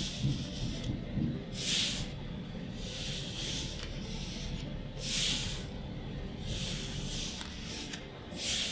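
Magic: The Gathering cards sliding against one another as they are flipped through one at a time: a soft papery swish every few seconds, with louder swishes about two, five and eight and a half seconds in.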